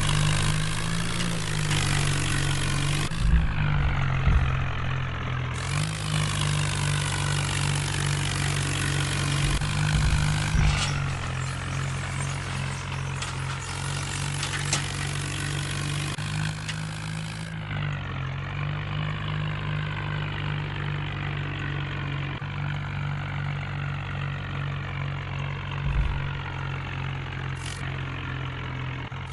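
Tractor engine running steadily, its pitch shifting slightly up and down a few times, with a few low thumps.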